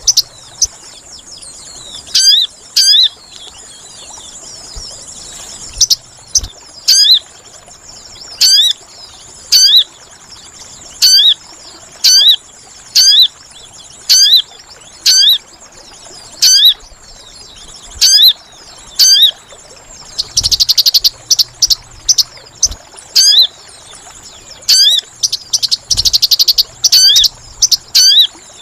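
Sogon bird calls played as a lure. Short, sharp, hooked chirps repeat about once a second, often in pairs, and two longer buzzy rattling bursts come in the second half, over a steady high-pitched insect drone.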